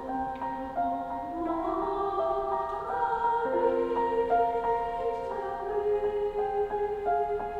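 Choir singing a classical choral piece, with held notes that slide and step between pitches over an accompaniment of struck notes.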